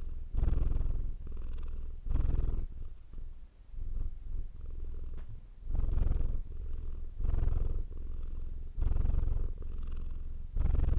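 Domestic cat purring close up, a low steady rumble that swells louder and softer in a regular cycle, about every second and a half.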